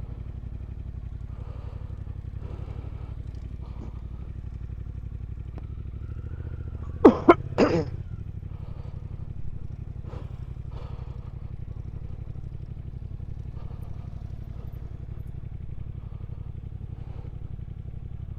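Triumph Speed Twin 1200's parallel-twin engine idling steadily. About seven seconds in there are three loud, sharp bursts in quick succession.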